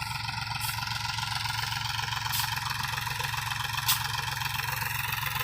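Mahindra tractor's diesel engine running steadily at low revs, with a sharp click about four seconds in.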